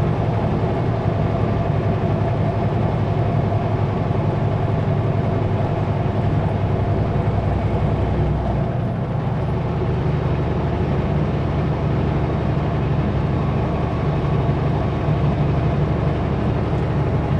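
Kenworth W900L semi truck's diesel engine running steadily under way, a continuous low drone heard inside the cab. The engine note shifts about halfway through.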